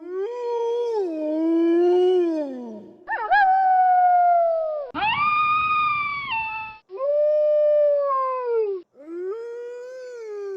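Wolves howling: a chain of long, drawn-out howls one after another, each sliding down in pitch at its end. A higher howl comes about halfway through, and several howls break off abruptly.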